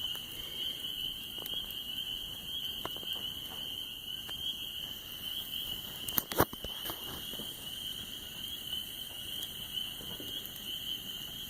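Steady high-pitched insect chorus trilling without a break, with occasional sharp pops and crackles from a burning campfire; the loudest is a quick pair of pops about six seconds in.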